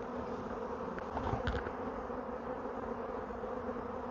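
Honeybee swarm buzzing: a steady hum of many bees, with a couple of faint knocks about a second and a half in.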